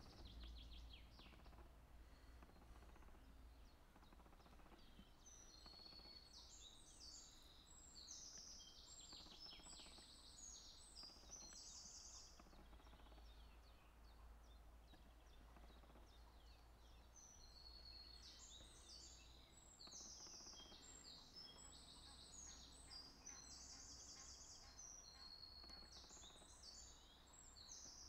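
Faint birdsong: high, rapid trilled phrases in two long bouts, over a steady low rumble.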